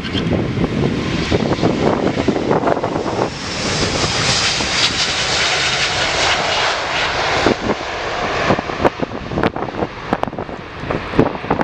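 Airbus A350-900's Rolls-Royce Trent XWB jet engines at take-off power, a loud rushing roar. A hissing roar swells to its loudest about a third of the way in and eases off after the middle.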